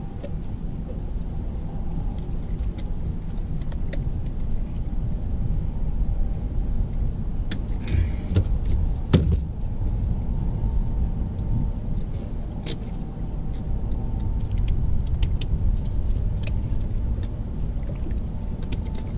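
A boat motor runs with a steady low rumble, and a few sharp knocks and clicks of gear being handled in the boat come through it.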